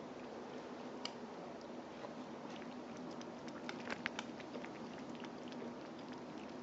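A kitten lapping water from a bowl: a quick run of small wet clicks, loudest about four seconds in, over a faint steady hum.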